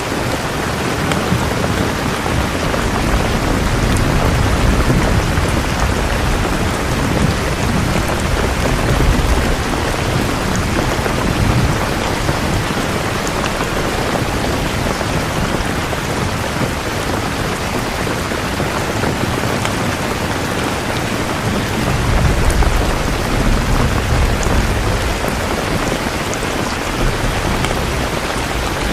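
Steady, heavy rainfall, with low rumbles of thunder swelling twice: a long roll in the first third and a shorter one a little past two-thirds of the way through.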